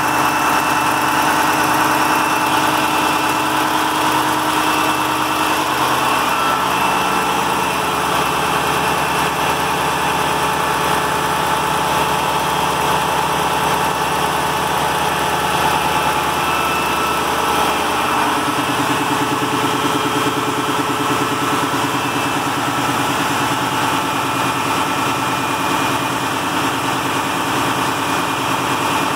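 Freshly overhauled KAMAZ Euro-5 diesel truck engine running steadily at idle, its note changing partway through.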